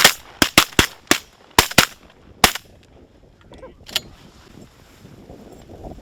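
Several hunters' shotguns fire a rapid, overlapping volley of about eight shots at ducks over the first two and a half seconds, then stop.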